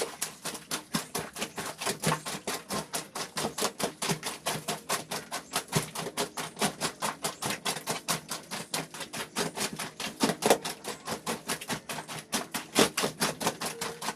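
Wet laundry being scrubbed by hand in quick, even strokes, about five a second.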